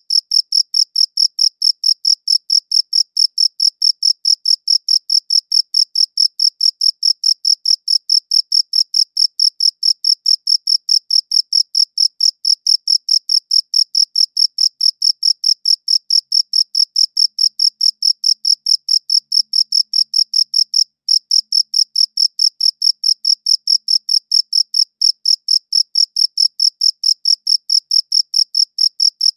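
Cricket chirping in a steady, even rhythm of about four high-pitched chirps a second, with one brief break about three-quarters of the way through.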